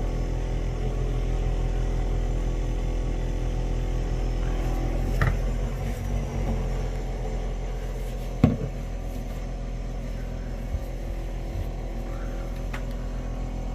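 Refrigerator motor running with a steady hum, with a few sharp knocks about five and eight seconds in.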